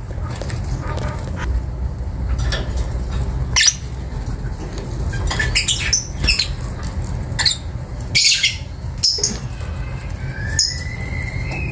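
Lovebirds chattering with sharp, high squeaks and chirps at irregular intervals, with a short whistled note rising near the end, over a steady low rumble.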